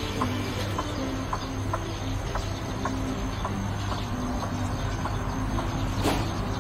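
White-breasted waterhen giving short clucking calls, about two a second, over background music with sustained low notes; a louder, harsher call comes near the end.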